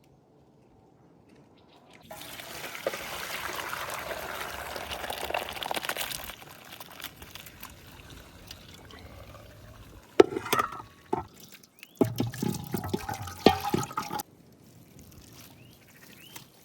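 Water running or being poured for about four seconds, starting about two seconds in, followed later by a few knocks and some clatter.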